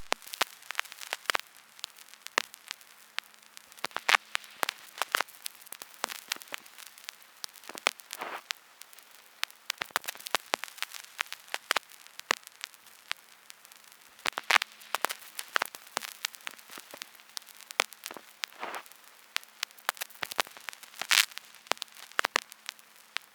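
Crackling: irregular sharp pops and clicks, several a second, over a faint hiss and a faint steady hum.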